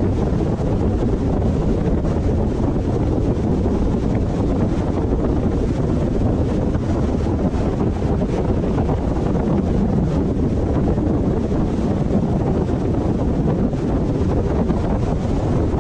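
Steady low rumble of a moving car: road and wind noise, with wind buffeting the microphone.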